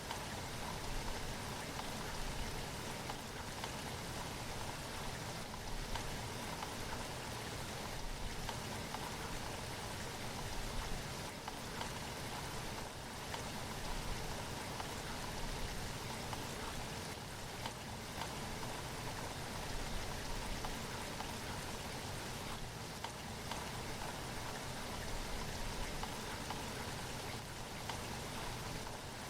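Steady rainfall: an even hiss with a dense patter of drops.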